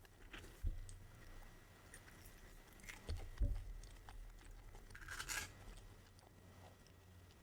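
A person eating a McDonald's meal: soft chewing and crunching with small clicks. There are a few low thumps, and a short, louder crunchy rustle about five seconds in.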